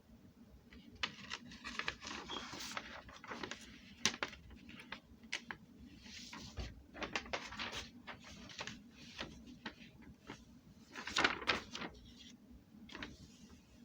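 Irregular clicks, knocks and short rustles of objects being handled, with a louder cluster about eleven seconds in.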